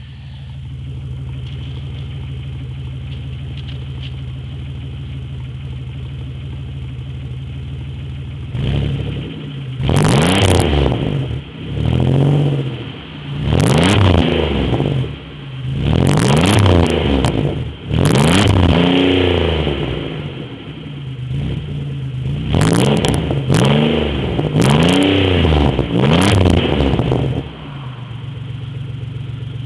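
Warmed-up 3100 V6 in a Chevrolet Beretta idling steadily with little ticking, then revved about seven times in quick succession, the pitch climbing and falling with each blip, before settling back to idle near the end.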